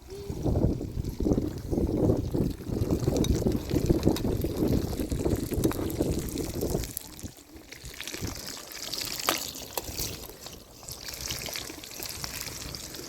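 Water pouring with a gurgle for about seven seconds, then a fainter hiss with a few light clicks.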